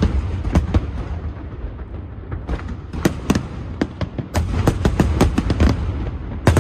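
Fireworks display going off: many sharp cracks and bangs over a steady low rumble of bursting shells. The cracks come sparser about a second in and then in dense volleys from about halfway through.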